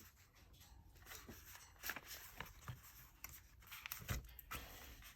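Faint paper rustling and a few light taps and clicks as a journal and its pages are handled on a desk.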